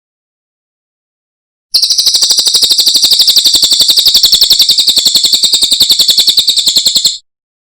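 Cililin bird singing a fast, even trill of high notes, more than ten a second. It starts abruptly about two seconds in, runs for about five seconds, and stops suddenly near the end.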